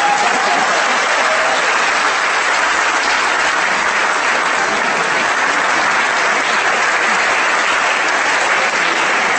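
Audience applauding in a large hall, a dense steady clapping that holds at one level and dies away just after the end.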